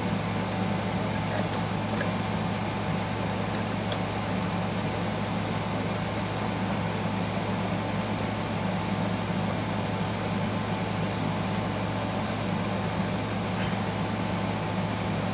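Steady room-machine drone, like an air conditioner or fan running: a constant low hum under an even whooshing hiss, with a few faint ticks.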